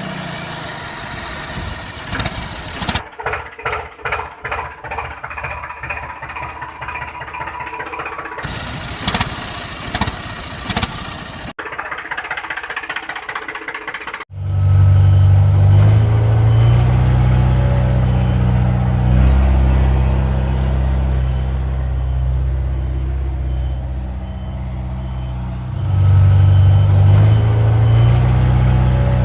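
Tractor engine sound effects spliced together: several short stretches of engine noise ending in sudden cuts, then a steady low engine idle that gets louder a few seconds before the end.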